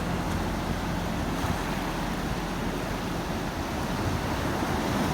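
Steady rush of sea waves with wind, an even noise that neither starts nor stops.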